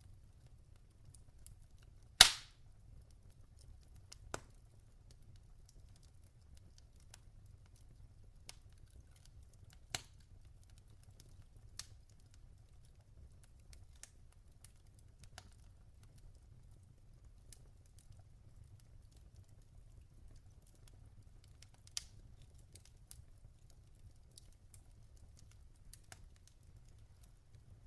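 Logs burning in a fireplace: scattered crackles and pops, with one sharp, loud pop about two seconds in, over a faint steady low rumble.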